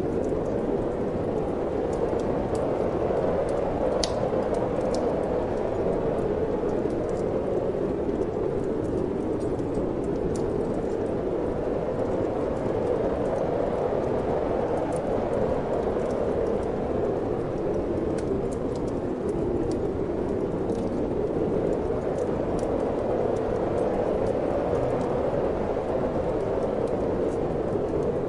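Steady wind blowing, swelling and easing slowly, with faint crackles and pops of a wood fire in a fireplace scattered throughout.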